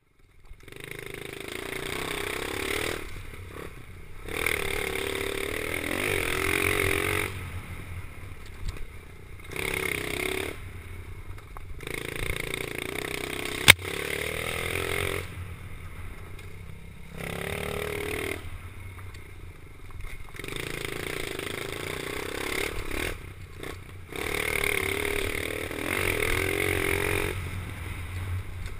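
Pit bike engine revving up and easing off over and over, in loud bursts of a few seconds each, with one sharp click partway through.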